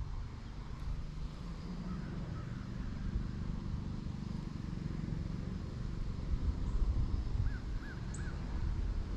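Low rumble of wind on the microphone, with a distant bird calling: a few faint calls about two seconds in, then three short calls in quick succession near the end.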